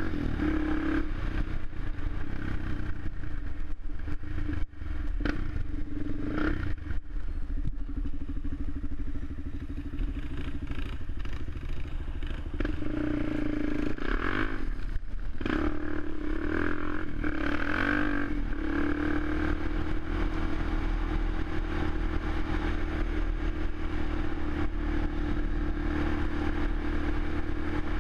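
Suzuki LTZ 400 quad's single-cylinder four-stroke engine running steadily, its pitch rising and falling a few times around the middle, with a brief knock early on.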